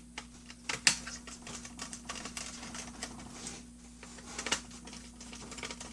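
Scattered light clicks and taps as a laptop's hard drive cover is handled and fitted back onto the underside of the machine. The sharpest click comes about a second in, and another near the middle.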